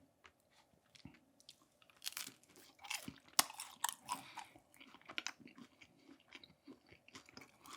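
Person biting into and chewing a fried lumpia spring roll: crunching bites start about two seconds in, then give way to softer chewing.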